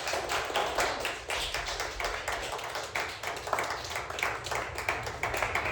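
A small audience clapping: many irregular hand claps overlapping throughout.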